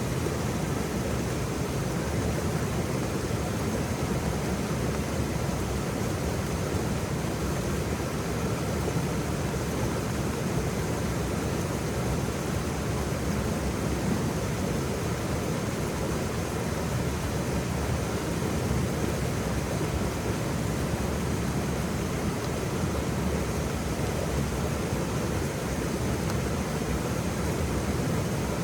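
Waterfall, a steady unbroken rush of falling water, fullest in the low end.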